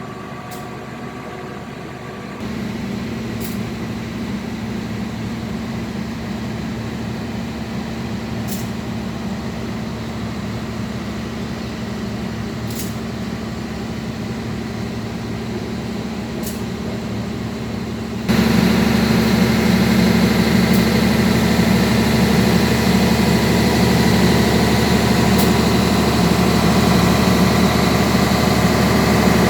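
Matarmaja passenger train running on the rails, with a steady low diesel drone. The drone steps up in loudness abruptly about two seconds in and again past the halfway mark. Faint sharp ticks come every few seconds.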